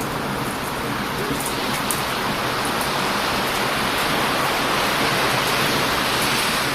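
Heavy surf breaking and washing on a beach: a steady rushing that swells a little past the middle. A few faint crackles from a wood campfire.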